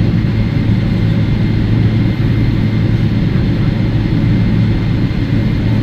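Boeing 777-300ER's GE90 jet engines heard from inside the cabin during taxi: a steady low rumble with a constant hum.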